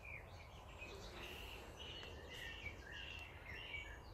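Faint outdoor birdsong: birds chirping in a quick run of short calls, over a low steady background rumble.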